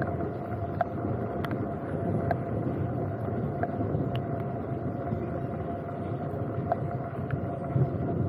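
Steady rain, with single raindrops ticking on the camera housing every second or so, over a faint steady hum.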